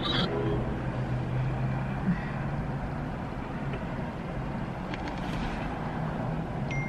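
Car engine idling, heard from inside the cabin as a steady low hum; a thin, steady high tone comes in near the end.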